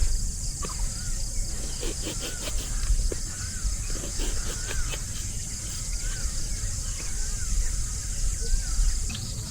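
Steady outdoor chorus of insects such as crickets, with short rising-and-falling chirps about once a second, likely from a bird, over a low rumble.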